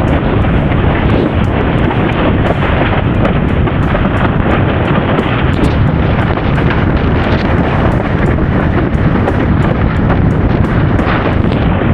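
Strong wind buffeting the camera microphone while windsurfing at speed in high wind: a loud, unbroken rumbling rush with faint small ticks over it.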